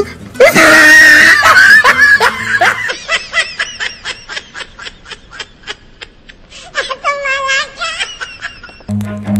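Laughter sound effects: a loud laugh at the start, then a run of quick, evenly spaced laugh pulses, then another short laugh. Music comes in near the end.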